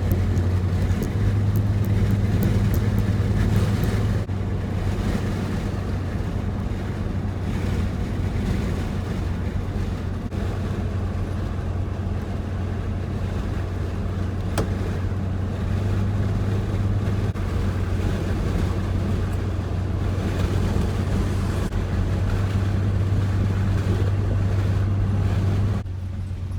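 Pickup truck running steadily at low road speed, heard inside the cab: a low engine drone with a constant hum, over road and wind noise. The drone swells slightly a few times.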